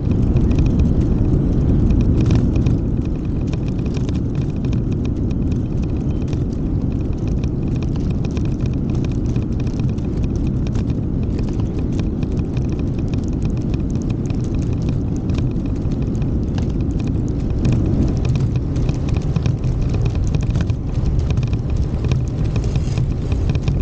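Outdoor ambience recorded on the move: a steady low rumble with many small irregular clicks and scuffs through it, and a faint steady high buzz.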